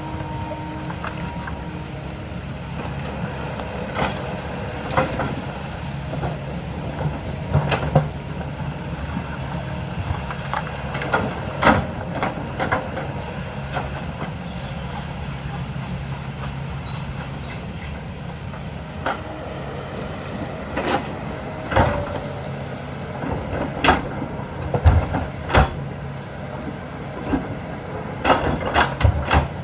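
Heavy diesel digging machine's engine running steadily under work, with irregular metallic clanks and knocks from the bucket and rock, several of them close together near the end.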